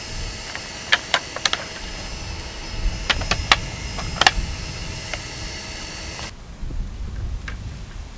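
Scattered light clicks and taps, some in quick pairs, over a low steady rumble. The background changes abruptly about six seconds in.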